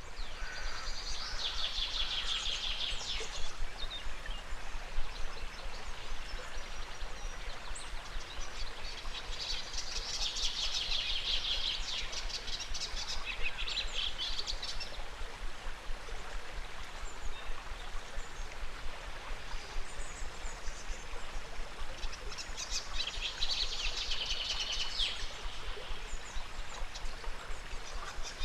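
Birds singing in three trilling phrases of about three seconds each, well spaced, over the steady rush of a flowing river.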